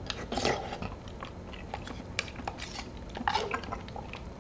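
Close-up mouth sounds of a person chewing a mouthful of soft canned pasta: irregular wet smacks and clicks.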